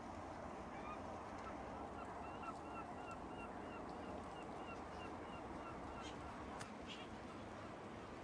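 Seagulls calling: a long run of short, evenly spaced calls, about three a second, over a steady background rush. A sharp click comes near the end.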